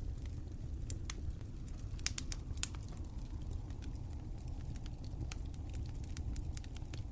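Wood fire crackling: scattered sharp pops and snaps over a steady low rumble of the flames, with a brief cluster of louder pops about two seconds in.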